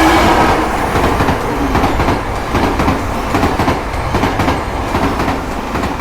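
A train running past, its wheels clattering over the rails above a steady low rumble.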